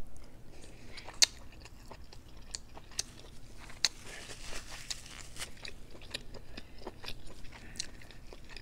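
A person chewing a mouthful of seafood, with wet mouth sounds and scattered short clicks. The sharpest clicks come about a second in and again about four seconds in.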